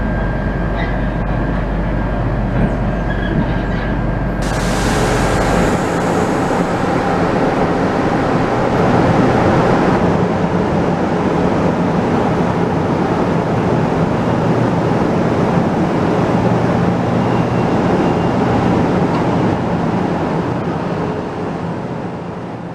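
KTM Komuter electric commuter train running noise: a steady rumble and rush, with a low hum heard from inside the carriage. About four seconds in the sound switches abruptly to a brighter, hissier train noise at the platform, which fades near the end.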